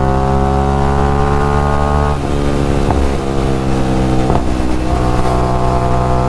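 Motorcycle with a loud aftermarket exhaust accelerating at full throttle. The engine note climbs, dropping briefly a few times as the bike shifts up through the gears.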